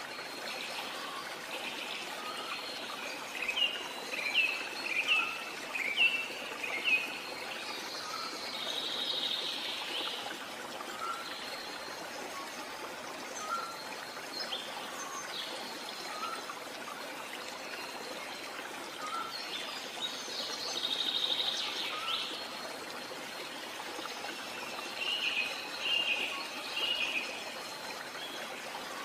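Birds singing: bursts of quick chirps and trills, with a soft repeated call every second or two, over a steady background hiss.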